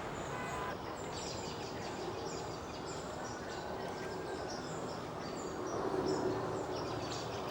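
Small songbirds giving short, high, thin call notes, several a second from about a second in, over a steady low background hum.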